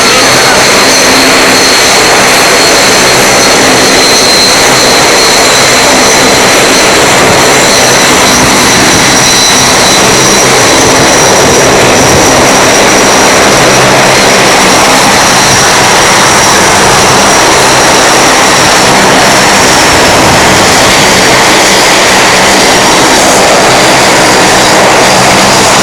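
Fighter jet's engines running loud and continuous, with two high whining tones that sink slightly in pitch and fade out about twenty seconds in.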